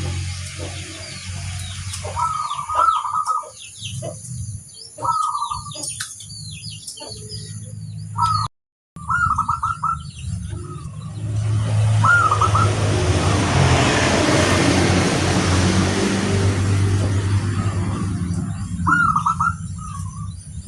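Zebra doves (perkutut) cooing in short repeated phrases, with higher chirps from smaller birds, over a steady low hum. The sound cuts out briefly about a third of the way in, and a loud rushing noise swells up in the middle.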